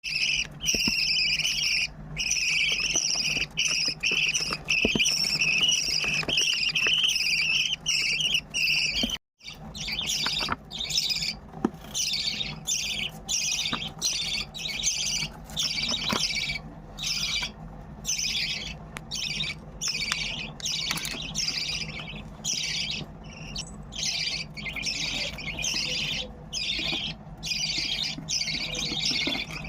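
Budgerigar chicks begging for food: a nearly unbroken high rasping call for about nine seconds, then, after a sudden break, a run of short repeated begging calls about one a second.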